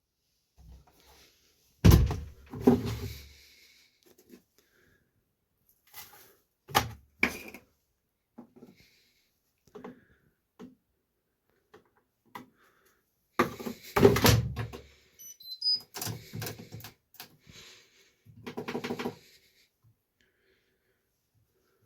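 A series of irregular knocks, thuds and rustles from handling a front-loading washing machine, such as its door being opened and shut and laundry being loaded. The loudest thuds come about two seconds in and about fourteen seconds in, with quiet gaps between.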